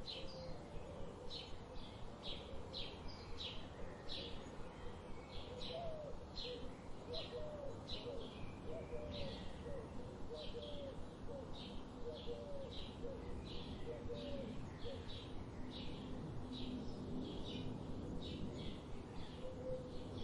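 Wild birds calling: one bird repeats a short, high chirp about twice a second throughout. Fainter, low wavering call notes come in and out through the middle, over a steady outdoor hiss.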